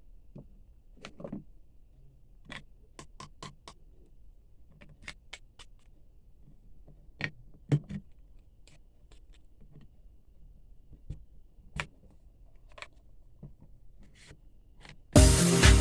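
Scattered light clicks and taps of small objects being handled, an irregular handful every second or two. About a second before the end, loud music starts abruptly.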